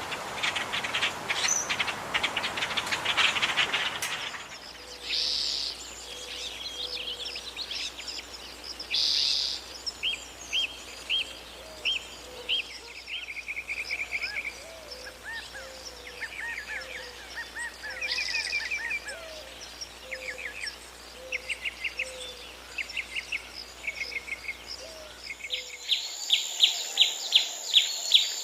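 Birds calling and singing: a dense, rapid chatter for about the first four seconds, then a mix of short repeated chirps, brief trills and whistled notes. Near the end comes a fast run of loud, sharp chirps. The background changes abruptly about four seconds in and again near the end.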